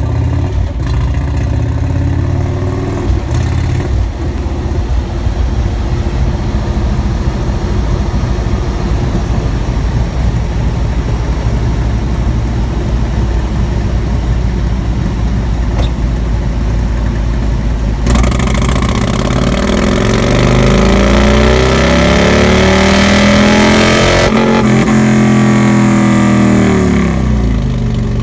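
Indian motorcycle V-twin running on a dyno through an aftermarket head pipe and slip-on mufflers. It idles steadily, then about 18 seconds in the throttle opens and the engine revs up in a rising pull that is cut at about 24 seconds. The revs then fall back to idle.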